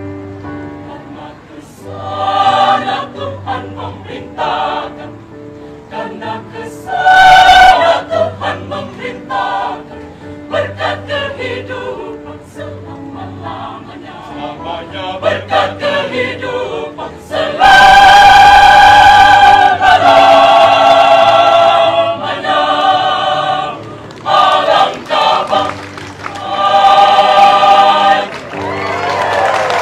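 Church choir singing a sacred song in harmony, with held chords that swell loudly several times. Near the end the song closes and applause begins.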